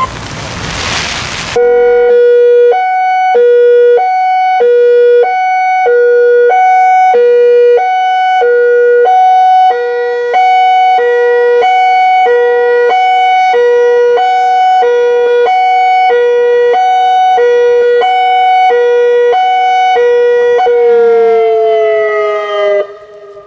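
Federal Signal Modulator 6024B electronic outdoor warning siren sounding its high-low test tone: two pitches alternating evenly, a little under a second each, for about 19 seconds. It opens on a short hiss, and at the end the tone slides down in pitch and cuts off.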